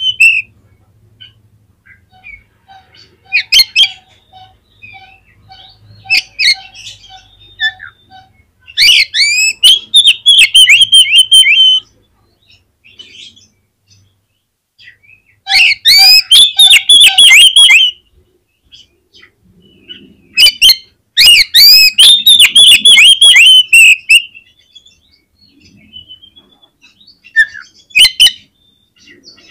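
Oriental magpie-robin singing in full voice: three long runs of rapid, sweeping whistled notes a few seconds each, with shorter calls between. A faint low note repeats evenly, about three times a second, during the first several seconds.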